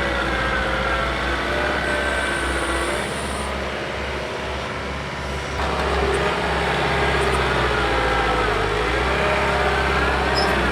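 John Deere 4052R compact tractor's three-cylinder diesel running under load while pushing dirt with a box blade, its pitch wavering as the load changes. It eases off and drops a little about four seconds in, then picks back up about six seconds in.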